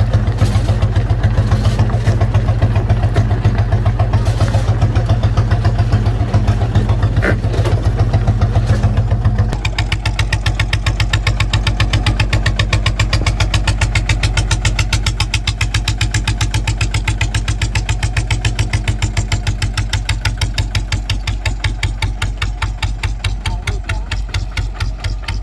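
Kubota ZT155 single-cylinder diesel engine of a two-wheel tractor running steadily. About nine seconds in it changes to a slower, distinctly thumping run with evenly spaced beats, which slowly grows fainter near the end.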